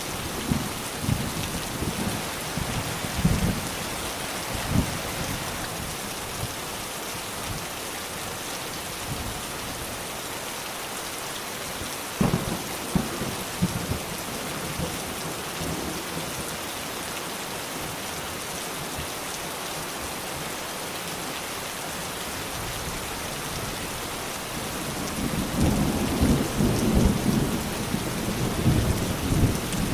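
Steady rain falling, with thunder rumbling low: short rumbles in the first few seconds, a sharper clap about twelve seconds in, and a longer rumble building near the end.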